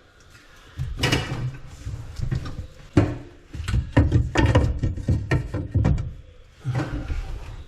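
Irregular clunks, knocks and scrapes of hard objects being handled and set down, starting about a second in and coming several a second, with a short lull shortly before the end.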